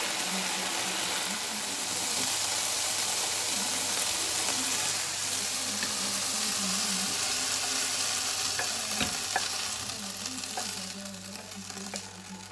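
Diced chicken sizzling in a hot nonstick frying pan, stirred and scraped with a wooden spatula, with a few sharp clicks of the spatula on the pan. The sizzle dies down over the last couple of seconds as the pan comes off the heat and the chicken is scraped into a bowl.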